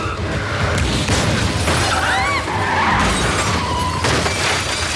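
Movie car-crash sound effects: metal crunching and glass shattering in a continuous loud smash. A short wavering screech comes about two seconds in.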